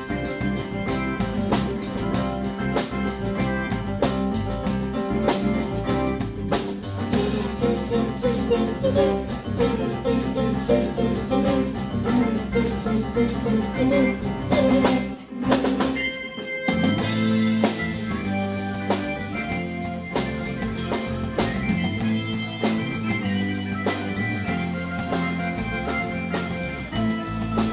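Live rock band playing an instrumental passage on drum kit and guitar, with a short break about fifteen seconds in before the full band comes back in.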